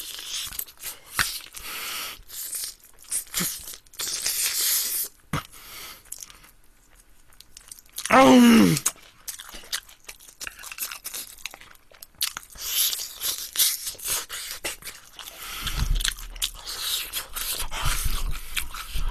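Close-miked chewing of crunchy sauced fried chicken, many short wet crackles and crunches as it is bitten and chewed. A short 'aung' hum about eight seconds in, and a low rumble near the end.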